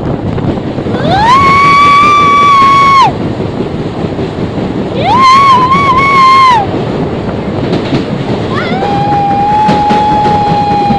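Train running with a constant rumble, while three long high-pitched hoots sound over it. Each hoot rises into pitch as it starts, and the last one is lower and still going at the end.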